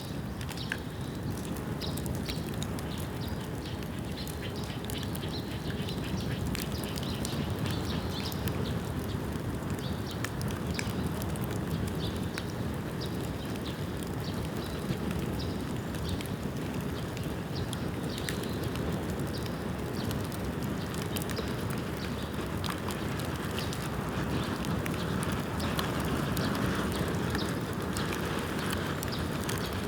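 Bamboo bonfire burning: a steady rush of flames with frequent sharp crackles and pops from the burning bamboo.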